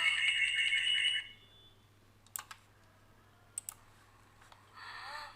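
A high, whistle-like sound effect played back with a fast stuttering delay echo, cutting off about a second in, followed by a few sharp mouse clicks.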